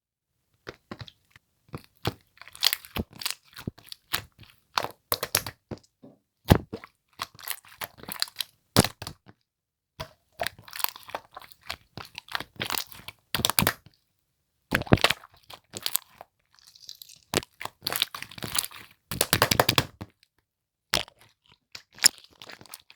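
Slime being squished and pressed by hand, giving irregular crunchy pops and clicks, some in quick crackling clusters.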